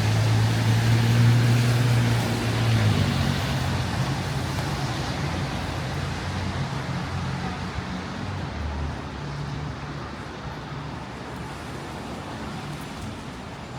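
A motor vehicle passing on the street: a low engine hum and tyre noise, loudest in the first three seconds, then fading away slowly.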